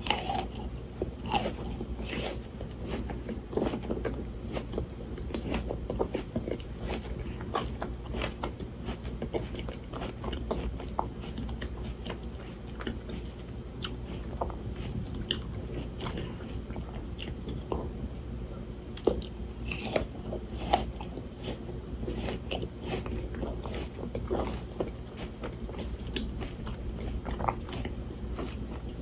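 Frozen Shine Muscat grapes being bitten and chewed close to the microphone: icy crunching with many sharp crackles and a few louder snaps.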